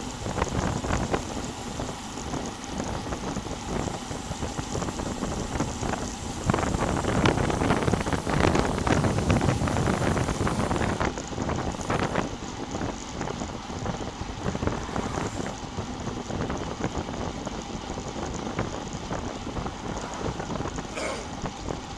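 Wind buffeting the microphone of a bicycle-mounted action camera while riding at speed: a steady rushing noise that swells louder for a few seconds about a third of the way in.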